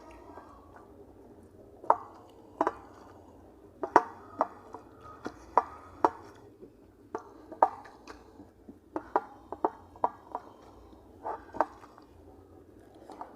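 Eating sounds: a string of sharp, irregular crunches and clicks, about one or two a second, as the meal is bitten into and handled.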